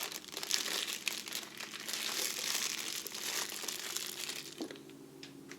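Wrapping crinkling and rustling in quick, irregular crackles as a brand-new tool is handled and unwrapped by hand, dying down near the end.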